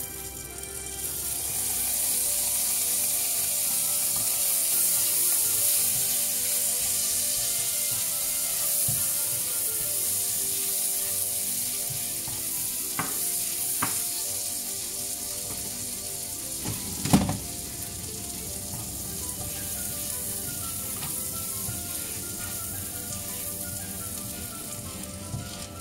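Butter and chopped garlic sizzling in a hot nonstick frying pan, the sizzle rising about a second in and slowly easing off. A spatula scrapes through the pan, knocking against it a few times, with one sharp knock past the middle.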